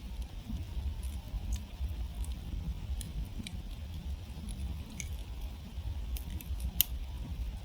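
Wood campfire crackling, with irregular sharp pops and snaps of burning wood and one louder pop near the end, over a steady low rumble of the fire.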